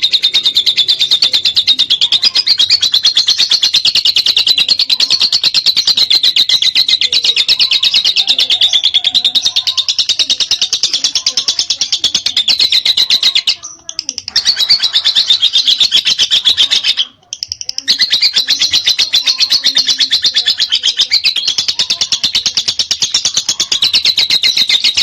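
Lovebird's long 'ngekek' chatter: a loud, very fast run of high, shrill repeated notes that goes on almost without a break, stopping briefly twice around the middle.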